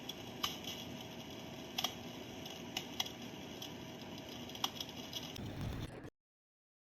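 Electric fireplace heater running: a steady fan hiss with a few sharp, irregular pops of its tinny recorded fire-crackling sound. A low rumble comes in near the end, then the sound stops abruptly.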